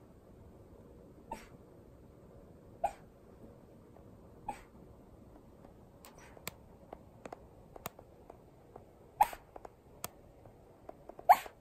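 A Shiba Inu making short, sharp breathy sounds, one about every second and a half at first. Two louder ones come near the end, with faint clicks in between.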